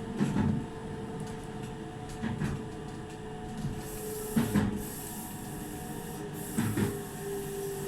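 Meitetsu 2000 series μSKY electric train running, its wheels thumping over rail joints in pairs about every two seconds, over a steady hum.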